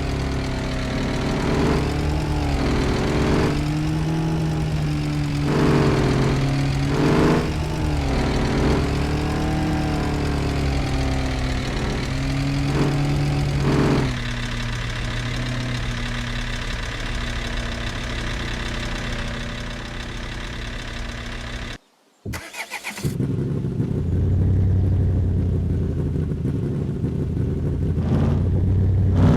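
A vehicle engine running, its pitch rising and falling repeatedly as it revs for roughly the first half, then holding steady. It cuts out briefly about two-thirds of the way in, and a lower, steady engine rumble follows.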